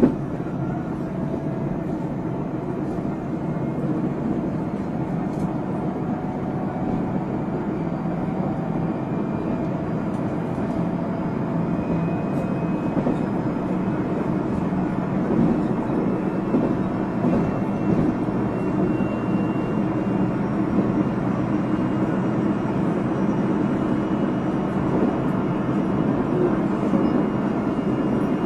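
Interior running sound of a JR Central 373 series electric multiple unit (set F2) with a Toshiba VVVF inverter: a steady rumble of wheels on rail, with a faint motor whine slowly rising in pitch as the train gathers speed.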